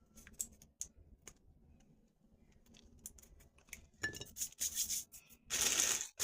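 Hands handling tamarinds and their dry, brittle shells: scattered small clicks and crackles, then louder rustling and scraping in the last two seconds.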